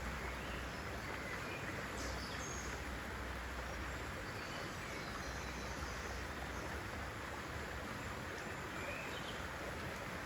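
Steady outdoor nature ambience: an even hiss at a constant level, with a few faint, short bird chirps scattered through it.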